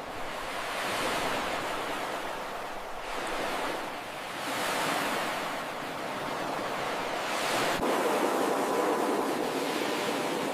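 Ocean surf breaking and washing up a beach, a steady rush that swells and ebbs every couple of seconds, with a louder surge building about three-quarters of the way through.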